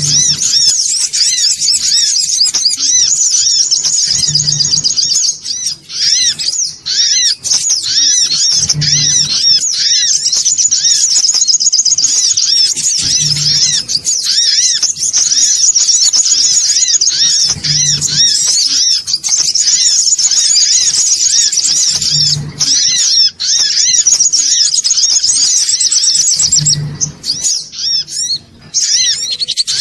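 Songon otong sunbirds chirping very rapidly and continuously, many high-pitched notes overlapping in a busy lure call. A short low hum recurs about every four and a half seconds.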